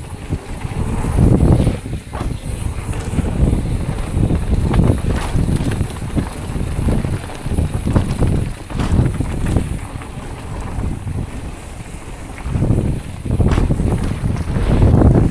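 Wind rushing over the camera microphone during a downhill mountain bike run, with rumble from the bike on the dirt trail, surging louder and softer. Scattered sharp knocks and clatters cut through, the clearest near the end.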